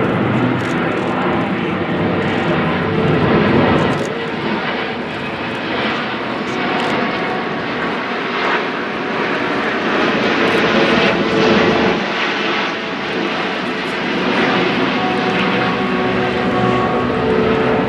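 Airbus A380's four turbofan engines running loud and steady as the superjumbo flies its display, a rushing jet noise with steady whining tones through it that eases slightly and swells again a few times.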